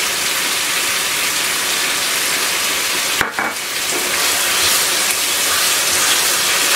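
Chicken jalfrezi sizzling steadily in a nonstick wok over a gas flame as a wooden spatula stirs it through.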